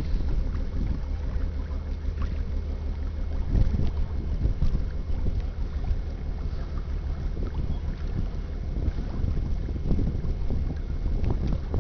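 Wind rumbling on the microphone over the low, steady drone of a passing lake freighter's engines.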